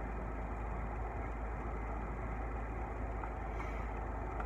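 Steady low rumble of a parked car's engine idling, heard from inside the cabin.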